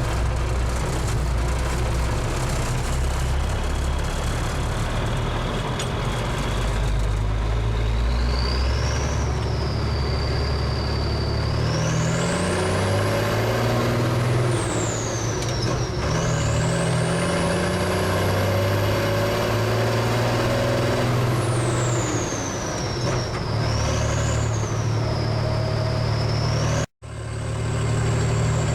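M52A2 military 6x6 truck's multifuel diesel engine running under load on the move, its pitch climbing and settling several times as it accelerates through the gears, with a high whine rising and falling along with it. The sound cuts out for a moment near the end.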